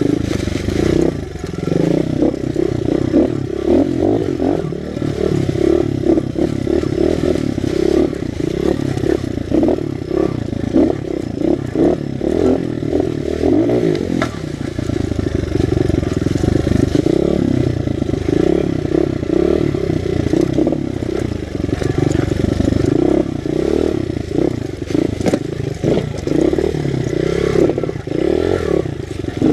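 Honda XR100 with a BBR 120 big-bore kit, its small air-cooled four-stroke single running on board, the engine note rising and falling unevenly as it picks over rocky creek ground, with rattling and knocking from the rough terrain and the suspension.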